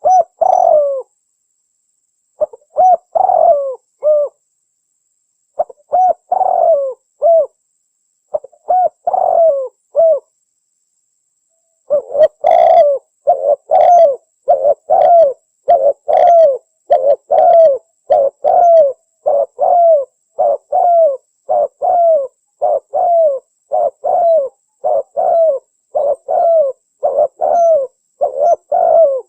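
Recorded spotted dove (tekukur) cooing, used as a bird-trapping lure call. Short phrases of a few low coos come every few seconds; after a brief pause about a third of the way in, the coos repeat in a steady run without break.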